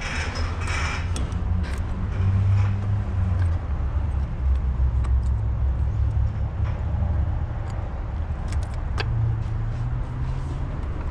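Steady low rumble with scattered light clicks and taps, the sound of parts being fitted by hand during an engine-bay job.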